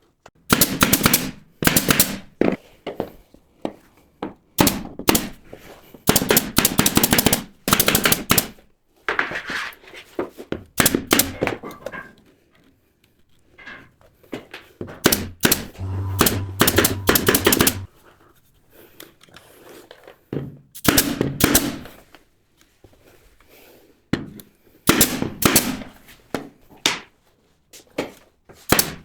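Pneumatic nail gun firing nails in quick runs of shots, fixing wood panels, in bursts of a second or two with short pauses between.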